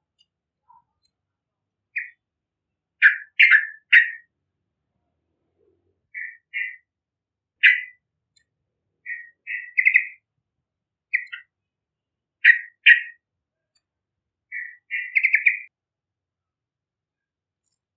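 A sooty-headed bulbul (trucukan) singing: short phrases of a few quick, bubbly notes, repeated with brief pauses between them. The bird is in full, lively song.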